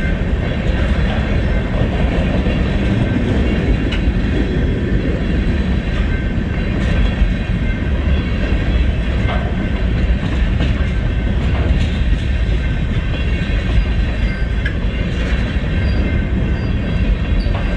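BNSF freight train's cars rolling past at close range: a steady rumble of wheels on rail with faint scattered clicks.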